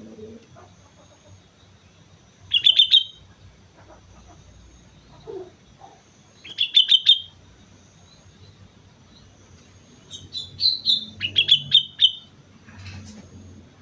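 Sooty-headed bulbul (kutilang) singing: three short phrases of quick, clear notes, the last one longer and more varied.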